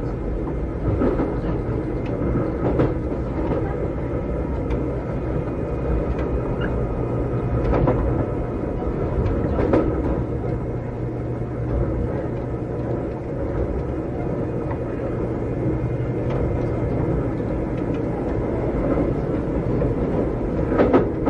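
Inside a Keikyu old 600-series electric train car with Toyo Denki equipment, running at steady speed: a continuous rumble and hum, with sharp rail-joint clacks now and then.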